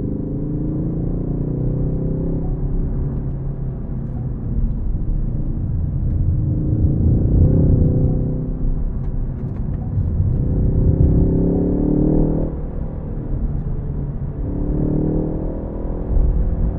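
Ford Focus ST engine pulling through the revs on a manual-gearbox drive, its pitch climbing and easing off several times and dropping abruptly about three-quarters of the way in, as at a gear change or a lift off the throttle. A steady low road and tyre rumble runs under it.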